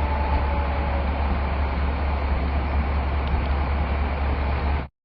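Strong storm wind blowing hard across a phone microphone, with a heavy low rumble and a steady rushing noise. A falling siren tone fades out about a second in, and the sound cuts off abruptly near the end.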